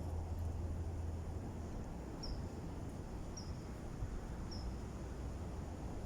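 Strong wind buffeting the microphone as a steady low rumble, with a low hum that stops a little before two seconds in. A short high chirp repeats about once a second, three times.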